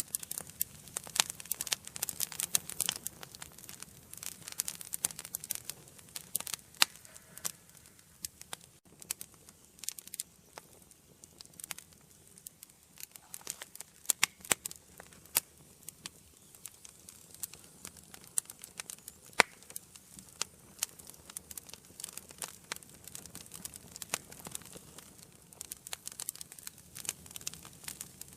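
Wood fire burning in an indoor fireplace: irregular sharp crackles and pops over a low hiss, busier in the first few seconds and again about halfway through.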